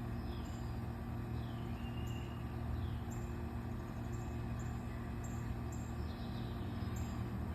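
Outdoor ambience: a steady low hum like distant traffic, with a few faint bird chirps and a soft high insect-like chirp repeating about once a second.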